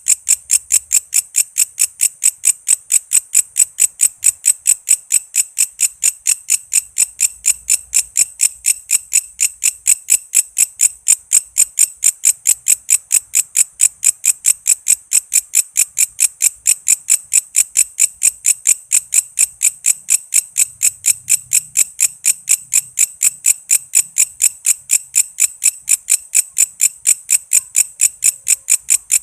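A walang kece insect calling in a steady, unbroken train of short, high-pitched chirps, about four a second.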